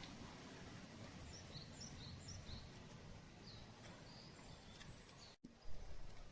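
Faint, steady outdoor background noise with a scattering of short, high chirps in the first four seconds. About five seconds in, the sound drops out abruptly and comes back as a lower rumble.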